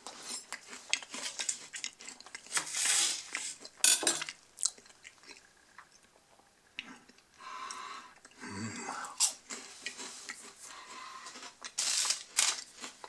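Crunchy chocolate-coated peanut wafer bar being chewed, with crisp irregular crunches, loudest in the first few seconds. Near the end the bar's foil wrapper crinkles as it is picked up.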